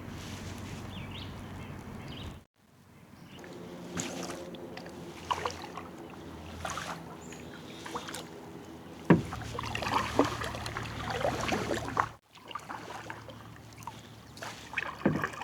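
Kayak paddle strokes dipping and pulling through river water, with splashes and water sloshing; the sound drops out abruptly twice.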